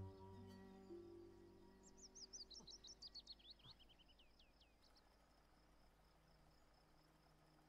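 Faint countryside sound: a bird sings a quick run of chirps that falls in pitch over about three seconds, over the steady high chirring of insects. A musical chord fades out near the start.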